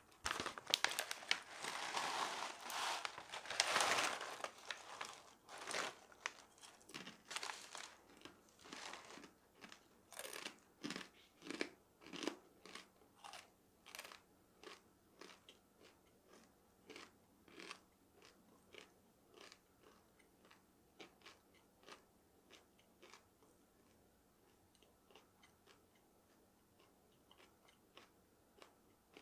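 Close-up chewing of crunchy dried food. It starts with a few seconds of dense, loud crunching, then goes on as rhythmic crunchy chews, somewhat under two a second, that grow fainter toward the end.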